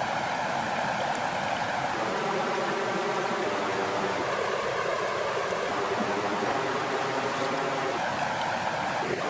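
Steady rushing of flowing water, an even wash of sound with no distinct crackles or calls standing out.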